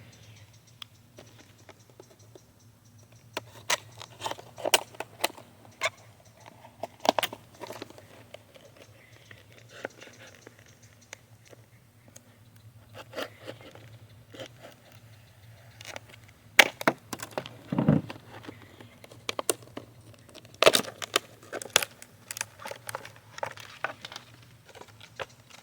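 Packaging of a prepackaged trot line being opened by hand: irregular crinkling, tearing and clicking, with the busiest handling about two thirds of the way in.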